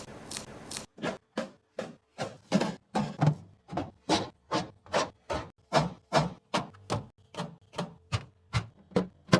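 A quick run of short, light knocks and clacks, about three a second, as containers and food items are set down and arranged.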